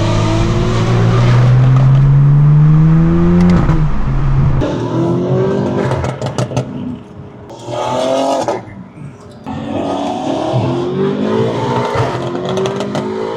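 Straight-piped BMW M4 F82 twin-turbo inline-six accelerating hard: one long pull rising in pitch for about three and a half seconds, then a string of shorter rising pulls through the gears, with sharp crackles from the exhaust at the shifts.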